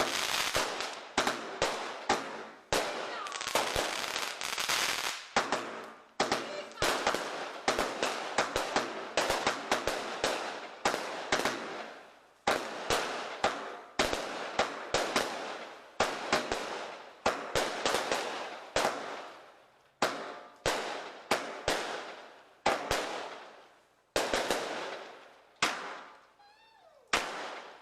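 Fireworks display going off: sharp bangs every second or two, each trailing off into fading crackle, and often overlapping. Near the end the bursts thin out and a few short whistles glide in pitch.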